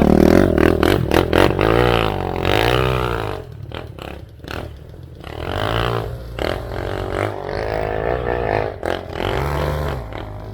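Enduro dirt bike engine revving up and down repeatedly in short rises and falls. It is loudest in the first few seconds, eases off briefly, then keeps running under throttle.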